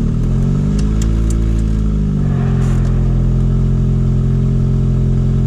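Turbocharged car engine just started and running at a raised idle; the revs lift slightly, drop back about two seconds in, then hold steady.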